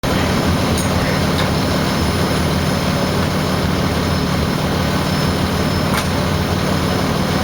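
Fire engine's engine running steadily, a low even hum.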